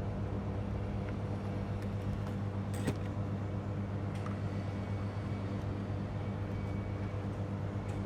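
Steady electrical hum, even and unchanging, with a faint click about three seconds in.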